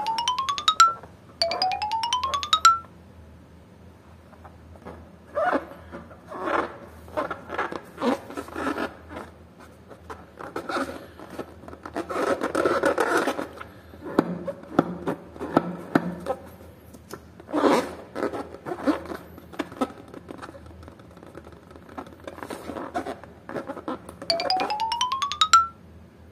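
Filled rubber balloons squeezed and rubbed in the hands: irregular squishing, rubbing and light tapping of rubber, densest around the middle. A rising whistle-like tone, about a second long, sounds twice at the start and once near the end.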